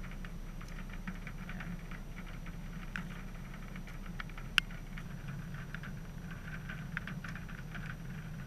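Light rain: scattered raindrops ticking irregularly over a steady low hum, with one sharper tick about four and a half seconds in.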